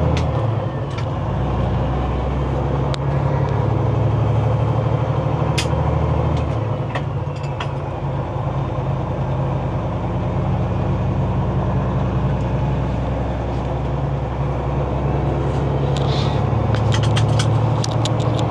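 Semi-truck diesel engine running, heard from inside the cab, with its low note shifting a few times as the revs change. A quick run of sharp clicks comes near the end.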